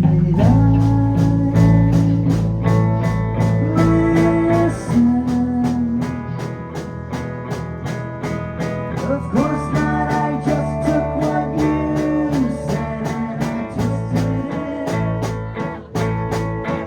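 Rock band playing live with guitar, bass, drums and keyboards: sustained chords and bass notes over a steady drum beat.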